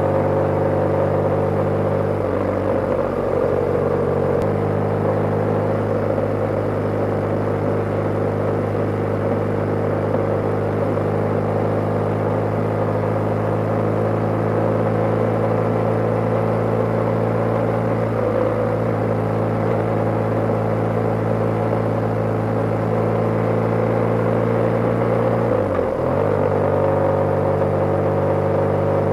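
BMW G/S motorcycle's boxer-twin engine running at a steady cruising pace on the road, with wind and road noise. The engine note changes about three seconds in and again near the end.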